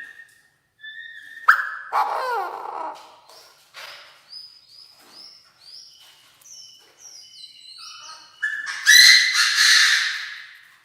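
Chinese francolin decoy bird calling: a loud, harsh call about a second and a half in and another near the end. A string of thin, rising high notes comes in between.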